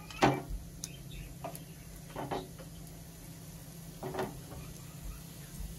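Roat cooking in ghee on a non-stick tawa over a low flame, a faint steady sizzle, with three brief knocks, the first and loudest just after the start and the others about two and four seconds in.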